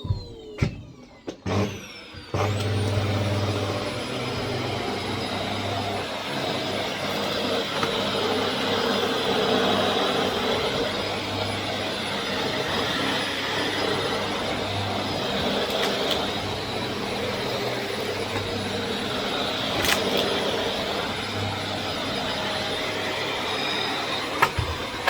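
A vacuum cleaner is switched on about two seconds in. Its motor spins up with a quick rising whine, then runs steadily while it sucks up debris. A few clicks come before it starts, and a couple of sharp knocks come later.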